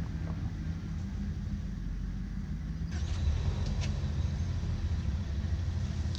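The 305 small-block V8 of a 1988 Pontiac Firebird Formula, with Magnaflow exhaust, running steadily as the car is driven; the engine note gets louder about three seconds in.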